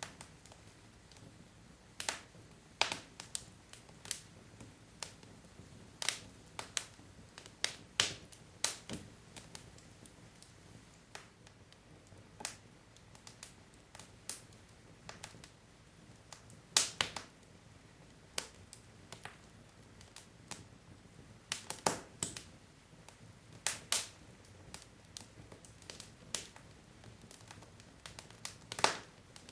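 Wood logs burning in a fireplace, crackling: irregular sharp pops and snaps, some much louder than others, over a faint low hiss of the fire.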